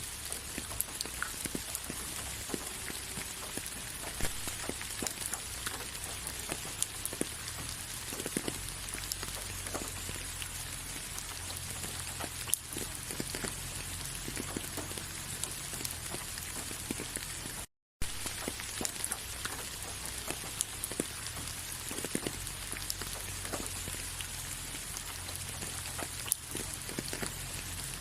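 Steady rain, with many separate drops ticking through it. The sound cuts out completely for an instant about eighteen seconds in, then carries on unchanged.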